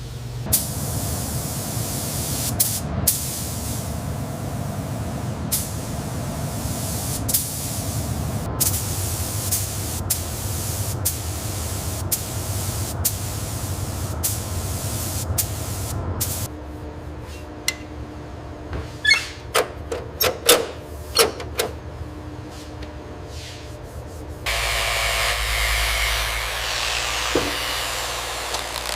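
Workshop tool noise, a steady mechanical running sound broken by many sharp clicks, then quieter with a cluster of clicks. About three-quarters of the way in it changes to a loud steady hiss like compressed-air spraying, which lasts to the end.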